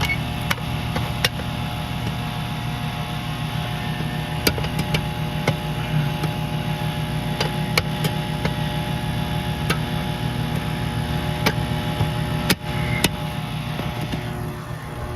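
Carrier Comfort outdoor air-conditioning condenser running, with a loud steady buzz that comes from its contactor and not the compressor. Scattered sharp clicks and taps sound over the hum.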